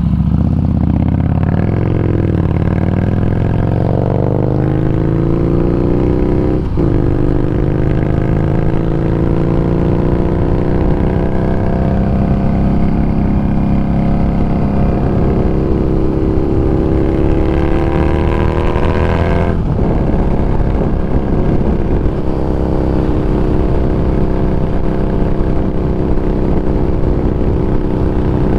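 Harley-Davidson Street Rod 750's V-twin engine running on the road, its pitch climbing and sinking with the throttle, with two brief clicks and a low wind rumble on the microphone.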